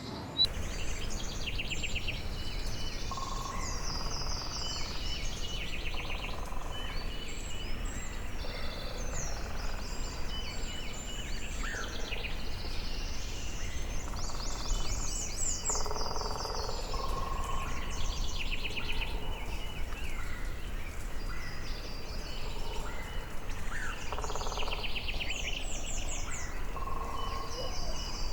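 Rainforest birds calling all together: repeated rapid trills and chirps, mostly high-pitched, with a few lower calls mixed in, over a steady low rumble.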